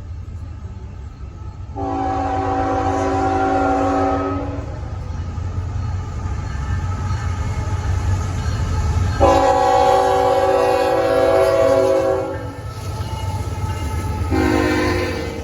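Diesel freight locomotive horn sounding over the low rumble of the approaching train: two long blasts, with a shorter third blast starting near the end.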